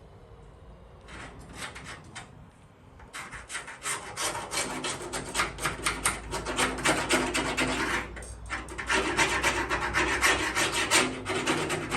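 A metal blade scraping dried, powdery tar underseal off a steel truck firewall in quick, rasping strokes. Two short bursts come first, then steady scraping with a brief pause about eight seconds in.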